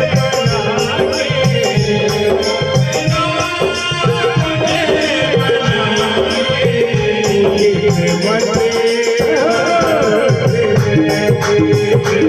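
Indian folk song music with a steady drum beat and rattling, shaker-like percussion under a sustained wavering melody.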